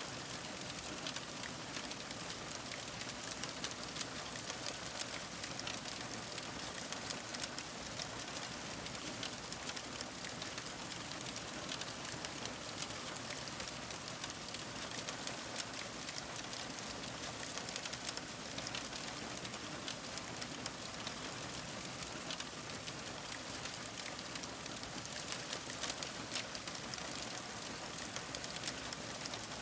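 Fire crackling: a steady hiss dotted with many small pops and snaps.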